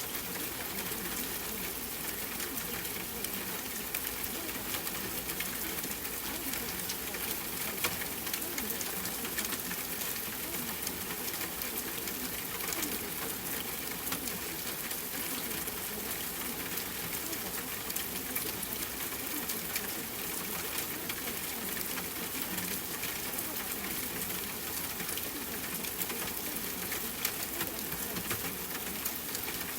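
Steady ambient water sound, a continuous hiss dotted with fine crackling ticks.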